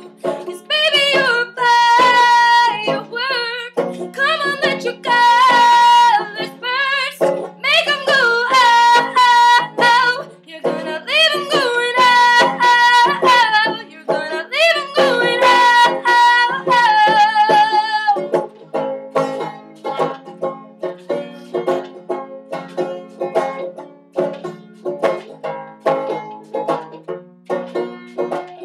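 Banjo picking a pop song, with a voice singing long, gliding held notes over it for the first eighteen seconds or so; after that the banjo carries on alone in quick plucked notes.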